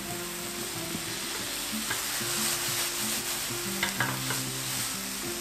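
Strips of bean curd skin and baby corn sizzling steadily in a hot nonstick frying pan just after soy sauce is added, with a few sharp clicks of chopsticks against the pan as they are turned. Soft background music plays underneath.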